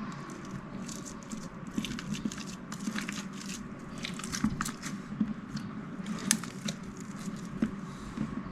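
Slime being squeezed and worked by hand, with many small irregular clicks and pops.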